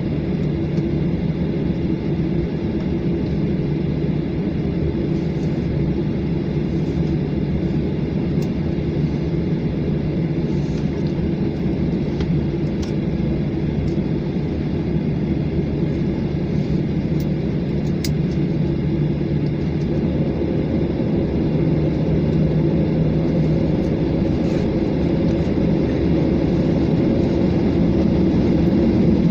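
Jet airliner cabin noise: a steady low rumble and hum of the engines heard from inside the passenger cabin, growing a little louder in the last third.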